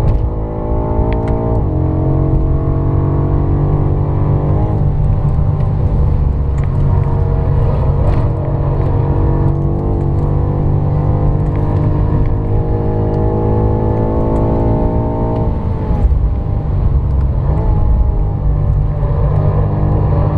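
BMW M5 F90's twin-turbo V8 heard from inside the cabin under hard acceleration, its pitch climbing steadily through the gears. The pitch drops sharply at gear changes about two and five seconds in, then drops again near sixteen seconds and climbs once more. A steady rumble of road and tyre noise runs underneath.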